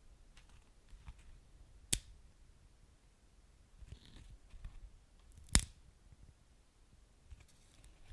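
Wood fire crackling in a fireplace: scattered soft crackles with two sharp pops, about two seconds in and the loudest near the middle.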